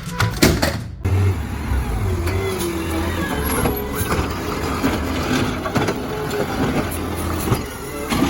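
A heavy vehicle's engine sound, a steady rumble with a wavering pitch, starting abruptly about a second in as music cuts off.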